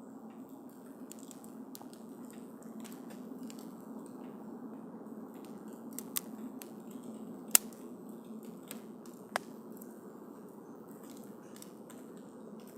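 Wood campfire burning, with a steady low rush of flames and frequent small crackles. Several sharper pops stand out, the loudest about halfway through.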